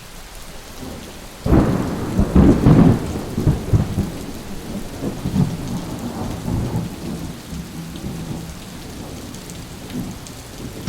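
Thunderstorm: steady rain with a loud thunderclap about a second and a half in, its low rumble rolling on and slowly fading over the next several seconds.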